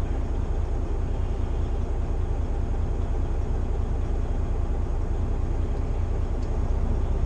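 Semi truck's diesel engine idling: a steady low rumble that holds level throughout.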